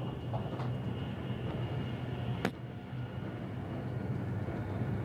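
Steady rumble of a train running along the line, heard from inside the carriage, with one sharp click about two and a half seconds in.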